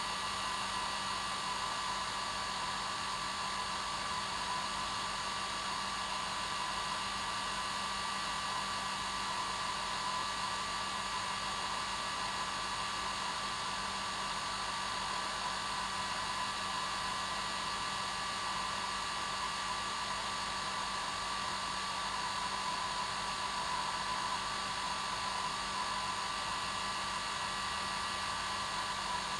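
Hair dryer running steadily on its normal setting: an even airy rush with a steady whine near 1 kHz and a low hum underneath.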